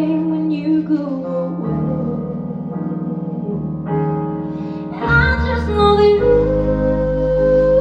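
Live jazz-pop band music: a female singer holds long notes with vibrato over keyboard and bass. The band gets louder about five seconds in.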